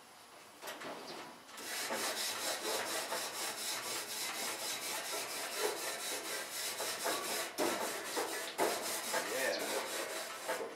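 A grill's cooking surface being scraped clean with rapid back-and-forth strokes, about four or five a second, starting about a second and a half in after one short scrape.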